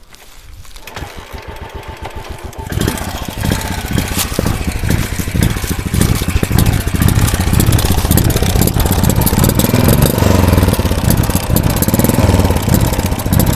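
Royal Enfield single-cylinder motorcycle engine running through a genuine Royal Enfield exhaust with the dB killer fitted, giving a fast, even thump. It gets much louder about three seconds in, and the revs rise and fall later. With the dB killer in, it sounds much like the stock exhaust.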